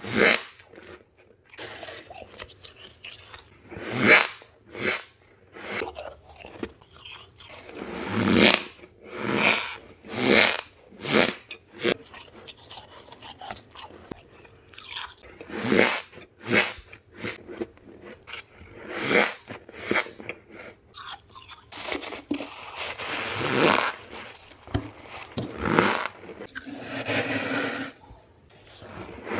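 Humidifier-grown freezer frost being bitten and chewed close to the microphone: a string of irregular crunches, sharp bites mixed with longer crunchy chewing stretches.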